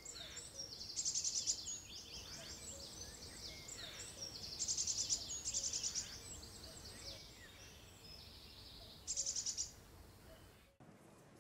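Birdsong: many high chirps and short whistles, with three loud rapid trills, cutting off abruptly near the end.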